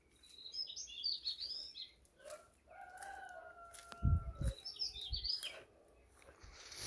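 Small birds chirping and twittering in quick high bursts at the start and again near five seconds. Around three seconds in, a longer held call on a steady pitch, and just after it a few low thumps, the loudest sounds here.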